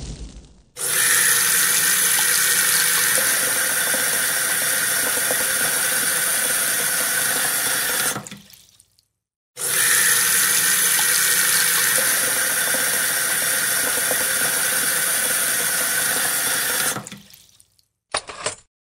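Water running steadily in two long stretches, each starting suddenly and fading away, with a short gap between them and a brief splash of the same sound near the end.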